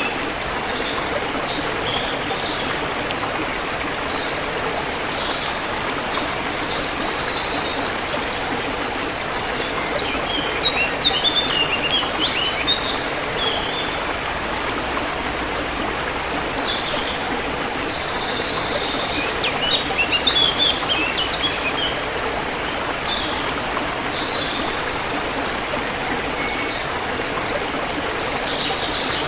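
Steady rushing of a forest stream or river flowing over rocks, with songbirds chirping in short clusters above it, busiest about ten to thirteen seconds in and again around twenty seconds.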